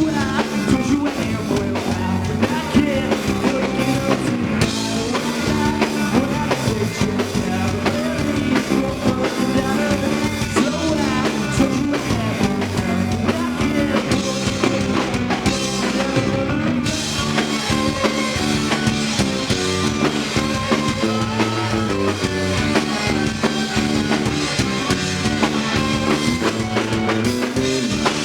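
Live rock band playing, with drum kit and guitar.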